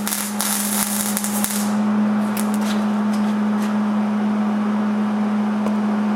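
Arc welding on the thin sheet-metal door panel: a dense crackle for the first couple of seconds, a short weld bead that then stops, followed by a few scattered pops. A steady hum runs underneath throughout.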